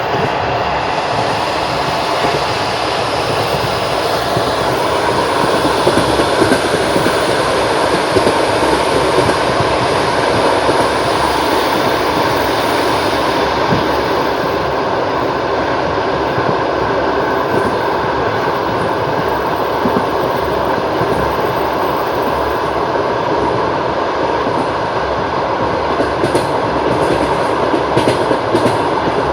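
Wheels of a long-distance Russian Railways passenger train knocking on the rails as it runs: a steady, loud running noise, with a few sharper clicks near the end.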